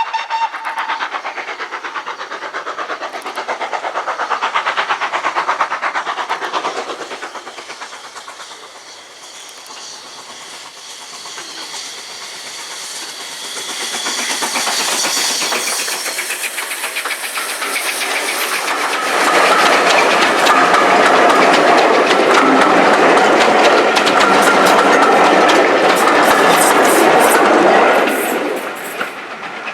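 Train running past on a heritage railway, wheels clattering over the rail joints; it gets louder and is loudest in the last third, then drops away near the end. The tail of a whistle fades out at the very start.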